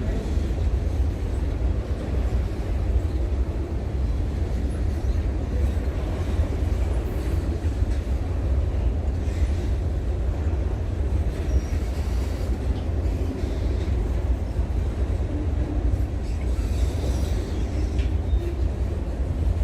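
Freight train rolling past with a steady, continuous rumble.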